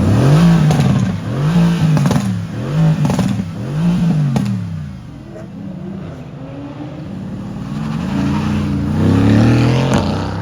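Car engine being revved hard as it pulls out: four quick rise-and-fall revs one after another, a lull, then another climb and drop in revs near the end.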